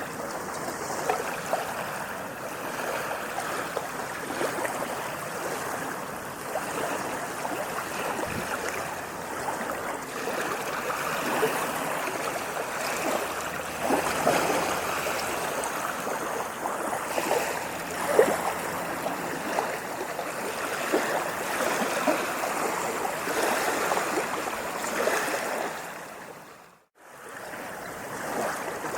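Water splashing and gurgling steadily with many small splashes, without clear wave surges. Near the end it fades briefly to silence and comes back.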